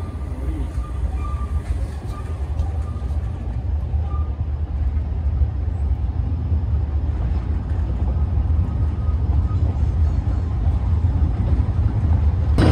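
Kurobe Gorge Railway narrow-gauge sightseeing train rolling along the track, heard from aboard: a steady low rumble of wheels and running gear that grows gradually louder.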